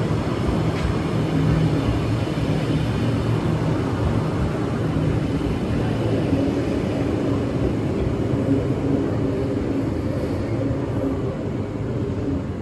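Train running with a steady, loud rumble and low hum, which drops away sharply near the end.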